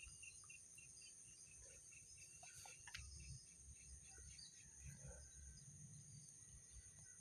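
Faint insects trilling steadily at a high pitch, with a higher chirp repeated about five times a second that fades out about halfway through.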